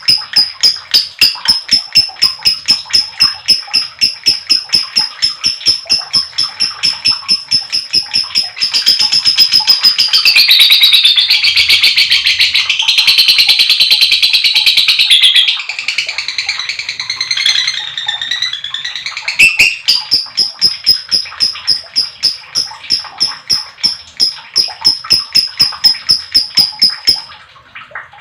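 A lovebird giving the long "ngekek" chattering call: a rapid run of sharp, high chirps at about three or four a second. For several seconds in the middle it runs together into a dense continuous chatter, then the separate chirps return and stop shortly before the end.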